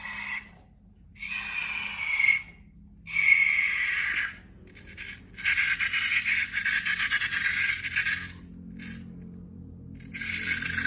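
Squeaky rubber scraping and rubbing in a series of bursts, each from half a second to about three seconds long, with short silent gaps between them. Faint music plays underneath.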